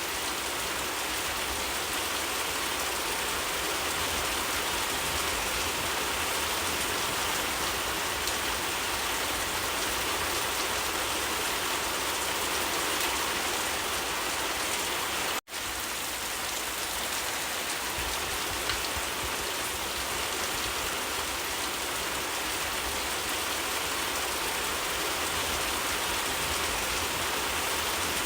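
Steady heavy rainfall, an even hiss of many drops, that cuts out for an instant about fifteen seconds in.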